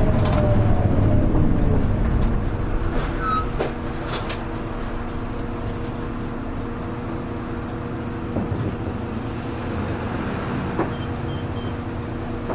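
Onboard sound of a KL-HR1JNEE diesel route bus: the engine and drivetrain wind down, with a falling whine over the first two seconds as the bus slows, then settle to a steady idle hum. Near the end come three short high electronic beeps.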